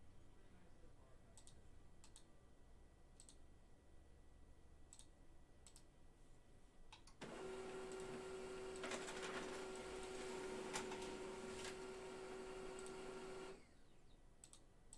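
A few faint clicks, then a small machine starts about halfway through and runs with a steady hum for about six seconds before cutting off suddenly.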